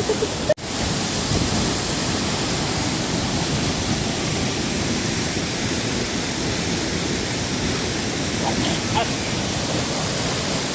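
Steady rushing noise that sets in after a brief dropout about half a second in.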